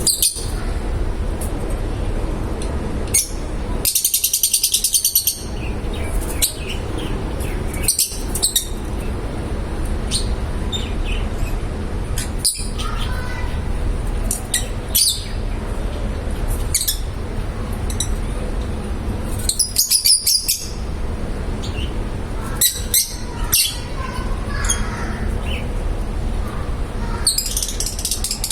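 Lovebirds chirping in short, high, rapid bursts every few seconds, over a steady low background hum.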